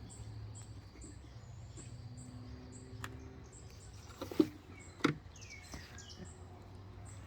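Small birds chirping: a steady run of short high chirps about three a second, with a few falling calls in between. A few sharp clicks or knocks stand out about four and five seconds in.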